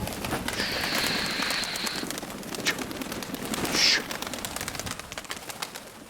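Strong wind buffeting the microphone with rapid crackling, broken by two long breathy hissing sounds, one starting about half a second in and a short, louder one near four seconds.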